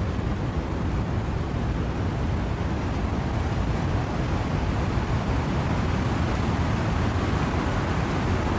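Steady wind and rain through trees: a dense, even rushing noise, heaviest in the low end, with no distinct drops or gusts standing out.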